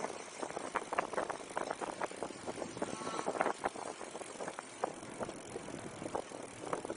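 Riding an electric fat-tire bike: steady wind noise on the microphone, with irregular clicks and rattles several times a second.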